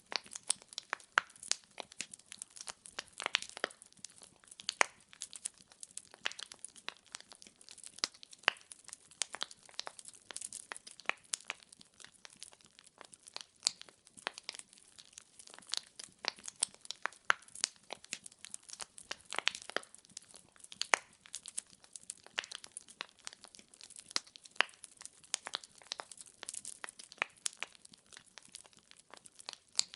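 Burning firewood crackling and popping in a fireplace, with many sharp irregular pops over a soft hiss.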